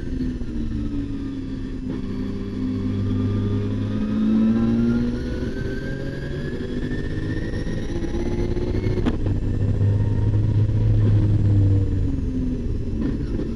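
Nissan RB26 twin-turbo straight-six of an R32 Skyline racing hard, heard from inside the cabin. The revs climb and drop repeatedly through gear changes and corners, with a single sharp click about nine seconds in.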